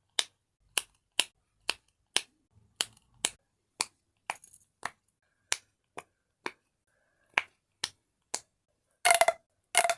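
Fidget toy clicking: single sharp clicks, about two a second, then near the end two longer, louder rattling clacks.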